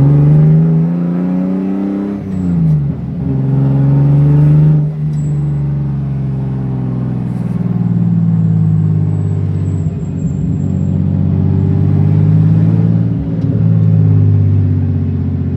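BMW E36 M3 race car's straight-six engine pulling hard under load. The pitch climbs for about two seconds, then drops sharply, as at a gear change or a lift off the throttle. It climbs again and dips once more about five seconds in, then holds fairly steady with slow rises and falls.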